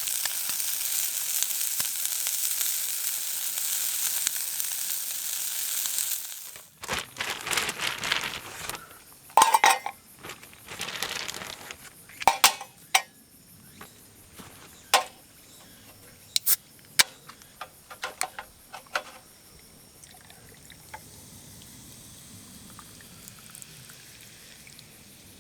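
Food sizzling on a hot iron griddle over a campfire, a steady hiss that cuts off abruptly about six seconds in. Then a run of sharp clinks and knocks of utensils on metal, and near the end only faint insect buzzing.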